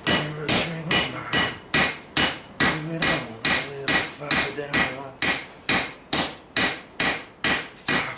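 Blacksmith's hand hammer striking hot steel on a Vulcan 90-pound cast iron anvil, in steady blows about three a second, each with a short metallic ring.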